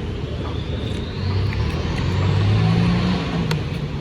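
A motor vehicle passing on the road, its engine rumble swelling to a peak about two and a half seconds in and then fading.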